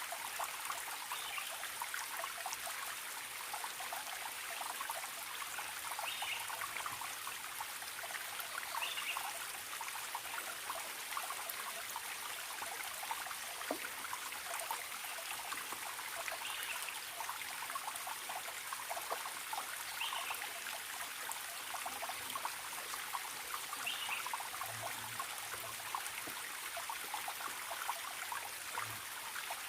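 Small forest stream trickling and babbling steadily over stones. A faint short bird call sounds about half a dozen times through it.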